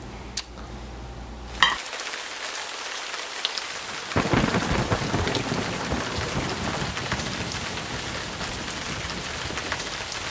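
Heavy rain pouring down in a night thunderstorm, starting after a short stretch of quiet room tone. A deep rumble comes in about four seconds in and slowly fades under the rain.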